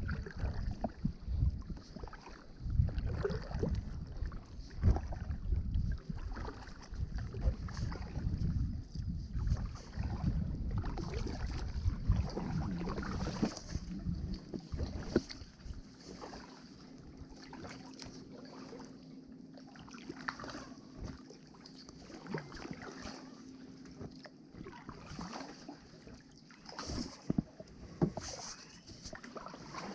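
Kayak paddle strokes splashing and dripping in the water, with wind buffeting the microphone through the first half. A faint steady hum comes in about halfway.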